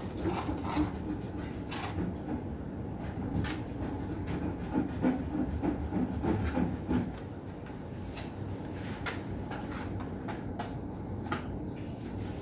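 Scattered knocks and clicks, like handling of wood and hard objects, over a steady low background rumble.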